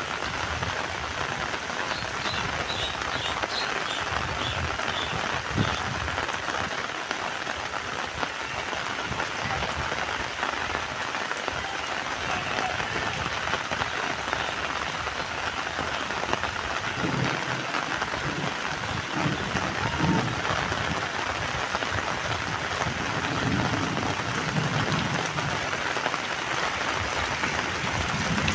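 Heavy rain falling steadily, a dense even hiss of drops on surfaces with a few soft low thumps.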